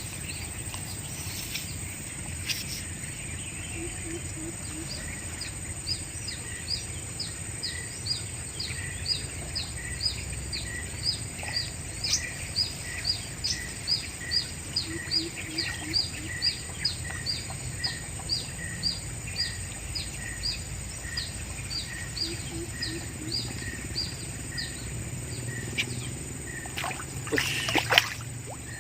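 A bird calling persistently, a short high chirp repeated about twice a second, over a steady high-pitched whine of outdoor ambience. There is a brief clatter near the end.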